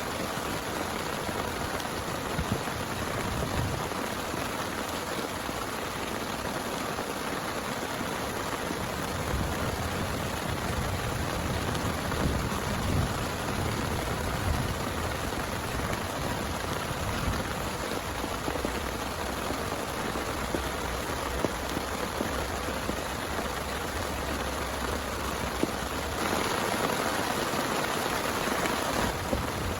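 Heavy rain pouring steadily, with a low rumble about halfway through and the rain growing louder for a few seconds near the end.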